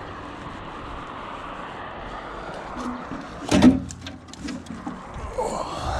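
A single loud bang about three and a half seconds in, over a steady rumble, followed by a few lighter knocks.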